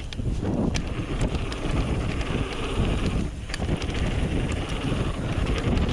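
Trek Remedy 8 mountain bike rolling fast down a dirt trail, with wind buffeting the action camera's microphone and knobby tyres on the ground, and frequent small clicks and rattles from the bike.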